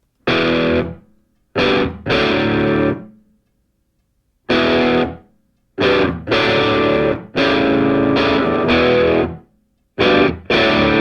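Music: distorted electric guitar playing a stop-start run of chords, each struck sharply and let ring briefly before cutting to silence.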